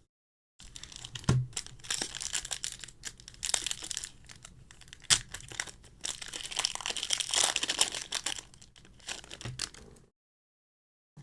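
Foil Pokémon TCG Crown Zenith booster pack wrapper being torn open and crinkled: continuous rustling with sharp tearing crackles, the loudest snap about halfway through. It starts just after half a second in and stops about ten seconds in.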